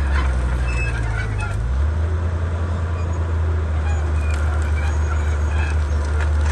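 Komatsu D31P bulldozer's diesel engine running steadily under work, its low note shifting to a different pitch about two seconds in.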